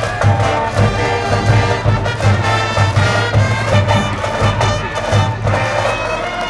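School brass band playing a baseball cheering tune, trumpets and trombones over a steady bass drum beat.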